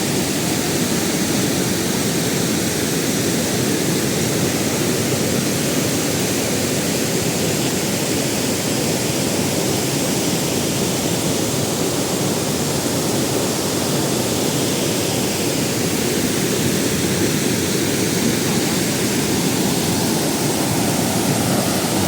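Waterfall cascading over rocks: a loud, steady rush of falling water.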